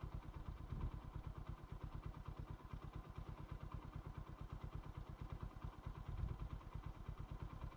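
Motorcycle engine idling at a quick, even beat, fairly quiet.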